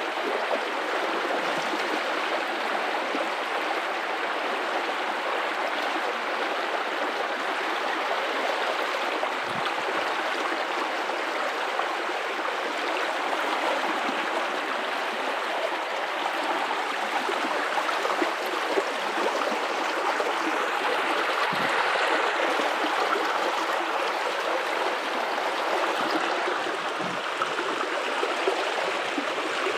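River water running steadily over rocks, an even rushing and gurgling.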